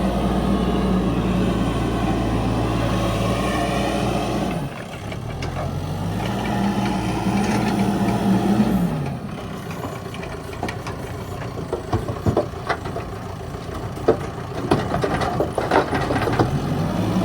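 Mahindra backhoe loader's diesel engine revving up and holding high, then dropping back, twice over. It then runs lower with a string of sharp knocks and rattles, and revs up again at the end.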